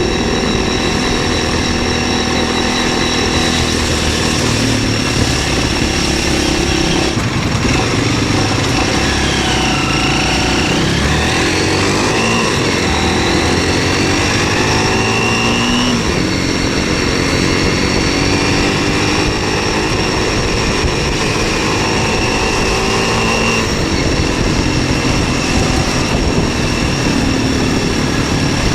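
MZ 125 SX's single-cylinder four-stroke engine running while the motorcycle is ridden, its pitch rising and falling with throttle and gear changes in the middle, then holding steady. Wind noise rushes underneath.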